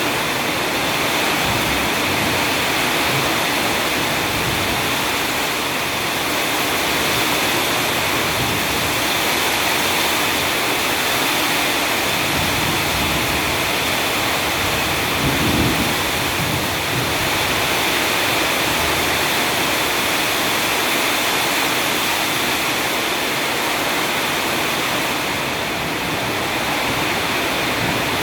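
Heavy rain pouring down in a steady, loud hiss, with one brief low rumble or thud about halfway through.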